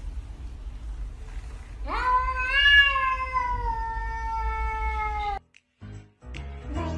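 A domestic cat gives one long, drawn-out meow, rising at first and then slowly falling, lasting about three and a half seconds before it cuts off abruptly. Rhythmic music with a beat starts near the end.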